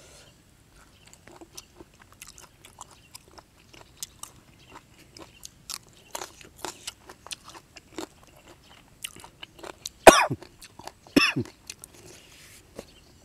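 A man chewing a mouthful of raw beef, close to the microphone: irregular wet clicks and smacks. About ten seconds in he coughs twice, sharply.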